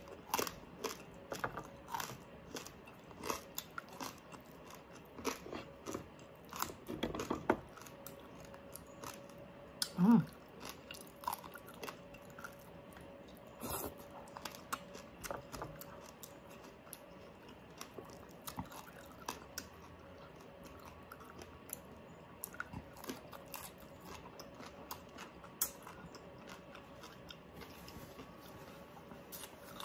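Close-miked eating: irregular crisp crunching and chewing of crispy pata, pork leg with crackling skin, and of sinigang vegetables, with wet mouth sounds. A brief low hum about ten seconds in is the loudest sound.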